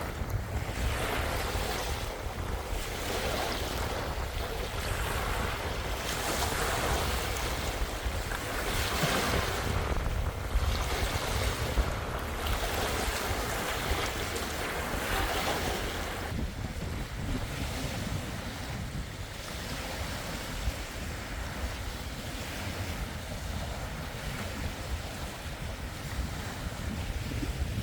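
Lake waves washing onto the shore in surges every couple of seconds, with wind rumbling on the microphone. The surges grow softer about two-thirds of the way through.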